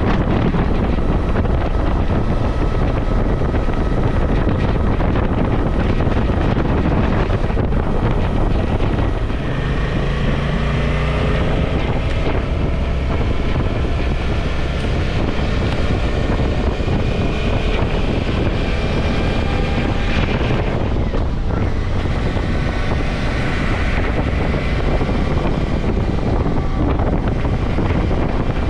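Wind buffeting the microphone on a moving motorcycle, over the running of a Suzuki V-Strom's V-twin engine. The engine note rises in pitch a couple of times.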